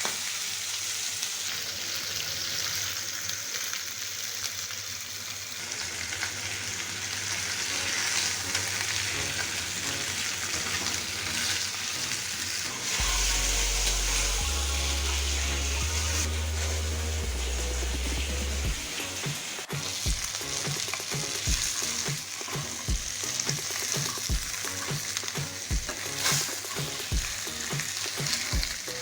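Food frying in hot oil in a pan, a steady sizzle with stirring. A low hum sits in the middle, and short low knocks come about once a second in the last third.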